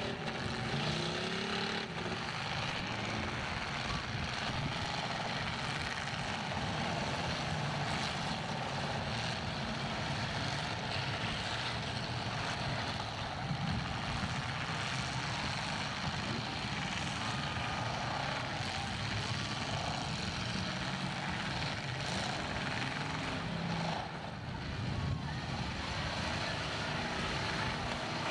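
Several demolition derby cars' engines running hard and revving as the battered cars push against each other with wheels spinning, a steady dense mass of engine noise with pitch rising and falling.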